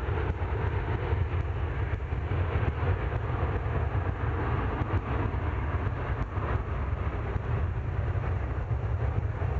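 Jet airliner engines making a steady, deep rumble with a rushing hiss above it, holding level without rising or falling.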